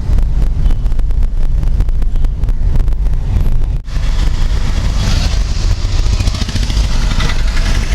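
A motor vehicle running, with a loud low rumble and rapid crackling. The sound breaks off briefly about four seconds in, then carries on with more hiss.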